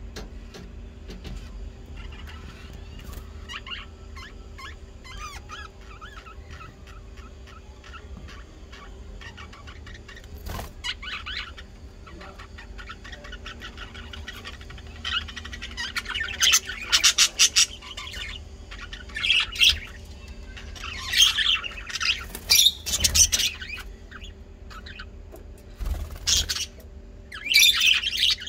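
Birds chirping and calling: faint at first, then loud bunches of rapid chirps from about halfway through, over a steady low hum.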